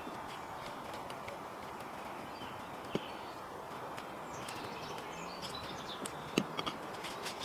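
Steady outdoor background hiss with a few sharp metallic clicks or knocks, one about three seconds in and several close together near the end, and faint bird chirps.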